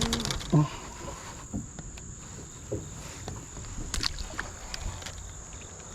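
Small fishing boat sitting on the water: scattered light knocks and taps from the boat and gear over a steady hiss, with one firmer knock about half a second in and a thin, steady high-pitched tone throughout.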